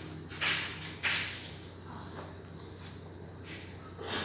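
Two brief rustling noises about half a second apart, over a steady high-pitched whine.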